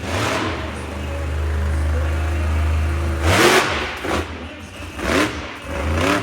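Monster truck engine running at steady revs, then revved hard about three seconds in and blipped several more times in short bursts.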